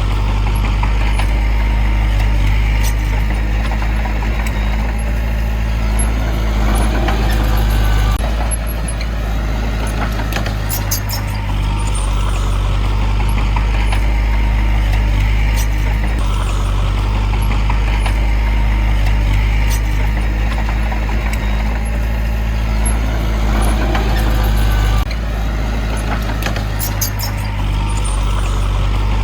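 Heavy diesel engine of earthmoving machinery running steadily under load, with a deep, constant drone and occasional swells and brief metallic clicks.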